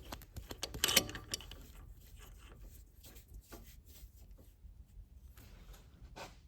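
Scattered clicks, knocks and rubbing of metal parts being handled as a threaded stud is fitted into a milling machine chuck, with a sharper knock about a second in and another near the end.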